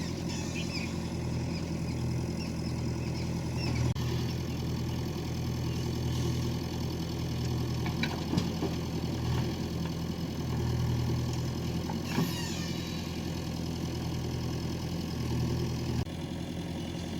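Diesel engine of a backhoe loader or tractor idling, its note swelling now and then, with a sharp knock about eight seconds in.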